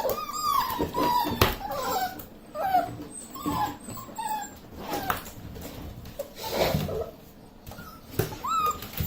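Young puppies whimpering and yipping in a string of short, high, wavering cries, with a brief rush of noise about two-thirds of the way through.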